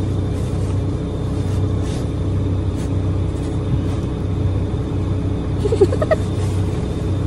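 Car engine idling: a steady low hum heard from inside the cabin.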